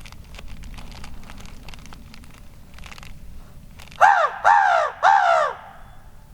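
A hand-blown crow call sounding three loud caws about half a second apart, each falling in pitch, used by a turkey hunter as a locator call. Before the caws there are light rustles and small clicks.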